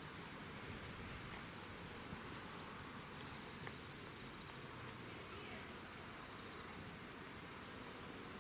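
Insects chirping: a faint, steady, high-pitched pulsing that repeats evenly over a low background hum of outdoor ambience.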